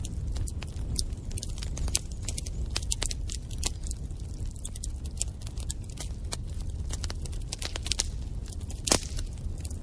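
Wood fire crackling in a fireplace: many irregular sharp snaps and pops over a low steady rumble of the burning fire, with one louder pop about nine seconds in.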